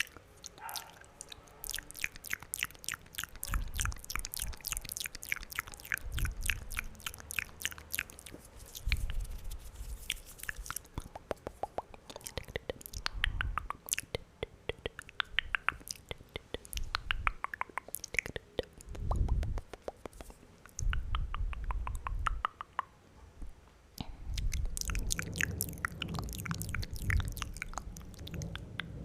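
Wet mouth sounds made right up against a microphone: rapid, dense clicks and smacks of tongue and lips, with bursts of low rumble now and then.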